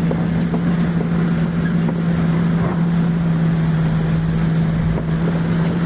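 Truck's diesel engine running at steady, constant revs, with a strong unchanging hum.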